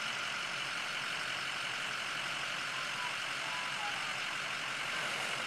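Vehicle engine running steadily in the mud, with a steady hiss and no marked revving or changes.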